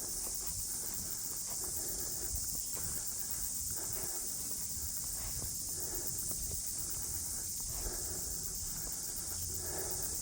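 Footsteps of a person walking, roughly one a second, over a steady high-pitched hiss.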